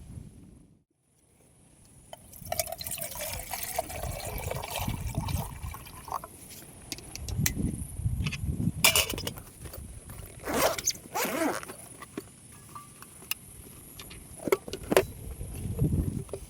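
Liquid being poured into a container, a wavering pitch that shifts as it fills, followed by a run of sharp clinks and knocks from handling things.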